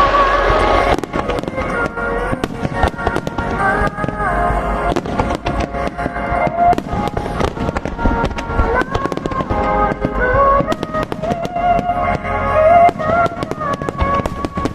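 Fireworks bursting and crackling in many quick, irregular bangs, with a song playing over loudspeakers to accompany the display.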